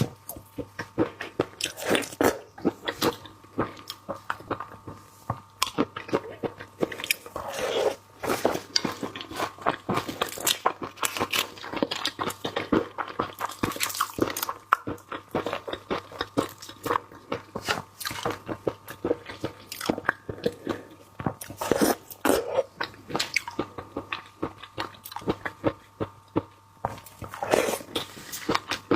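Close-miked chewing and crunching of marinated raw prawns, with dense, irregular crackles and wet bites as shells and prawn heads are bitten and chewed.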